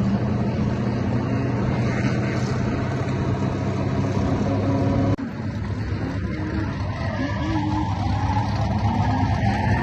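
LS V8 engine of a BMW E82 drift car running at fairly steady revs, with an abrupt break in the sound about five seconds in.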